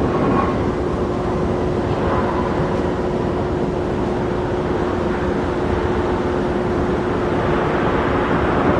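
Jet airliner engine noise: a steady rumble with a single held tone through it.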